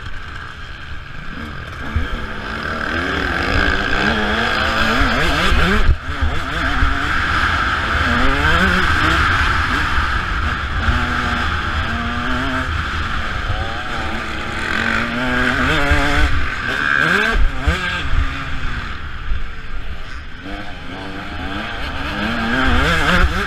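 Motocross bike engine revving, its pitch climbing and dropping again and again, over a steady hiss and low rumble.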